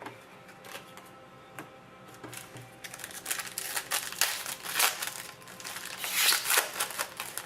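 A few light clicks, then from about three seconds in a run of rustling and crinkling as trading cards and their pack wrappers are handled, with louder swells midway and near the end.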